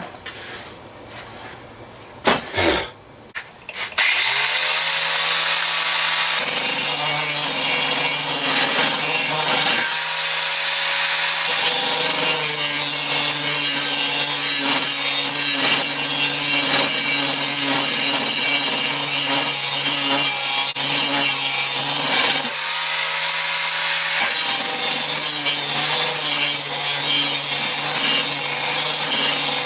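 A few knocks and clatter, then about four seconds in an electric grinder spins up and runs steadily, grinding and polishing the steel blade with a loud hiss over its motor hum. The load eases twice for a second or so as the tool comes off the work.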